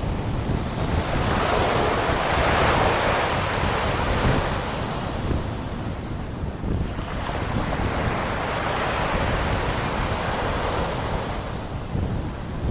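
Sea waves breaking and washing on the shore, the surf swelling twice, with gusty wind buffeting the microphone as a steady low rumble.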